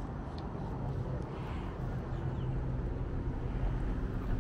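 A car engine running steadily, a low rumble.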